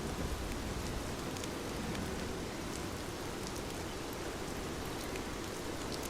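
Steady rain falling, with scattered drops ticking. A low rumble, the tail end of thunder, dies away in the first second or so.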